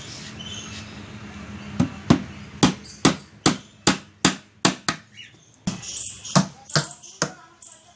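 A series of about a dozen sharp knocks in a steady rhythm, two to three a second, starting about two seconds in with a brief pause midway.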